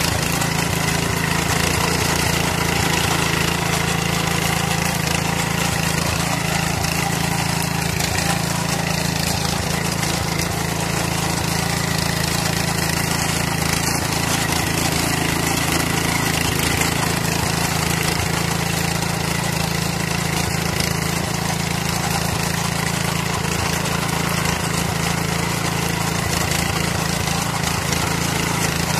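Power weeder's 5.5 HP, 225 cc petrol engine running steadily at a constant speed.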